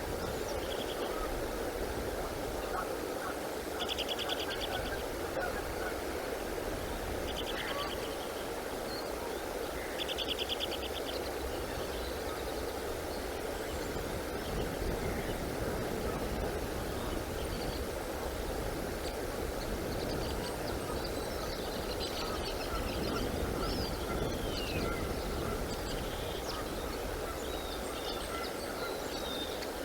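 Birds calling over a steady rush of outdoor background noise. Short buzzy calls come about every three seconds in the first ten seconds, and a stretch of quick chirps and sliding high calls follows in the second half.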